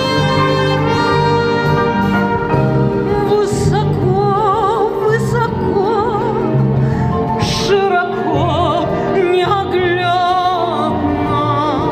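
Orchestral instrumental break of a Soviet pop song: sustained chords over a steady bass line, with a melody line that sings out with wide vibrato from about three seconds in.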